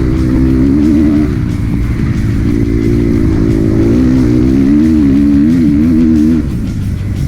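Kawasaki KX250F dirt bike's single-cylinder four-stroke engine revving up and down as it is ridden, with rock music playing over it; the engine note drops away about six and a half seconds in.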